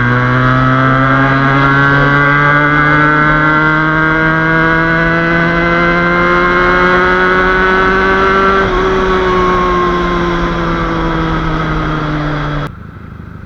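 Motorcycle engine running under steady throttle, its pitch climbing slowly for about nine seconds and then easing down as the throttle comes off. The sound cuts off abruptly shortly before the end.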